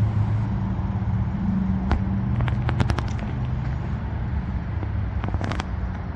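Diesel locomotive engines running in a steady low drone, with scattered sharp clicks.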